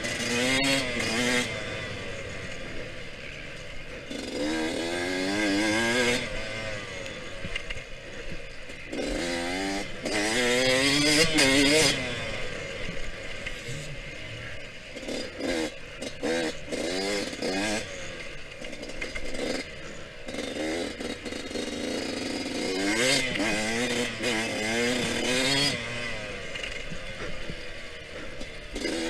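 Yamaha YZ125X two-stroke single-cylinder engine under hard riding, its pitch rising as the throttle is opened and falling back as it shuts off, over and over. It is loudest on one long pull about ten seconds in.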